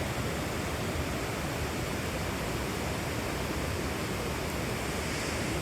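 Torc Waterfall cascading: a steady, even rush of falling water.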